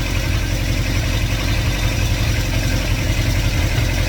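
2110cc air-cooled VW flat-four with dual Empi 44 IDF carburettors idling steadily with the fuel pump shut off, running on the fuel left in the carburettors.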